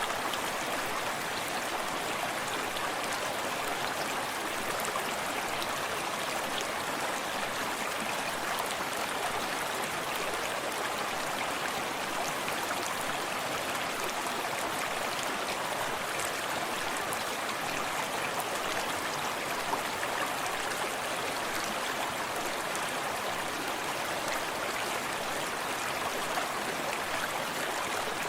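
Forest stream running steadily over stones: an even rushing and babbling of flowing water with fine splashes, unchanging throughout.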